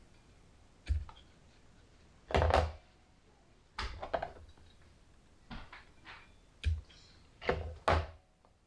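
Knocks, clatters and rustles of hands handling a plant, its pot and containers on a tabletop during repotting: about six irregular bumps, the loudest about two and a half seconds in.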